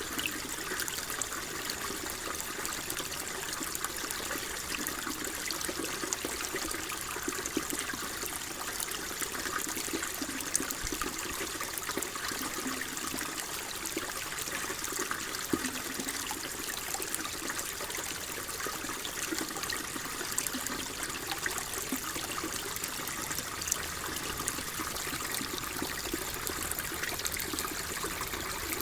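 Shallow water flowing and trickling steadily, with many small splashes and bubbling ticks over an even hiss.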